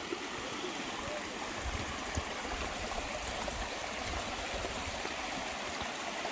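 Mountain stream rushing steadily over rocks, an even water noise, with a single dull thump about two seconds in.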